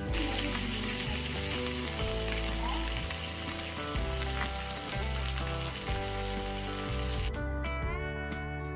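Marinated boneless chicken pieces sizzling in shallow oil on a flat tawa, a steady frying hiss. The sizzle cuts out about seven seconds in, leaving light background music.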